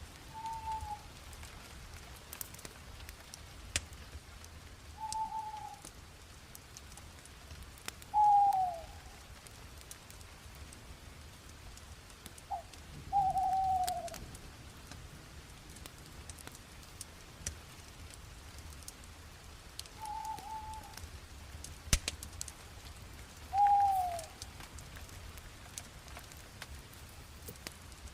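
Wood fire crackling with scattered small pops, while a bird calls six times in short, clear notes that slide downward in pitch. The calls are the loudest sound.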